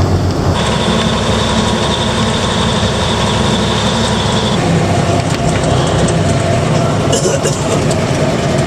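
AM General 5-ton 6x6 army truck's diesel engine running under way, loud and steady in the cab, with a steady whine that starts under a second in and stops after about four seconds.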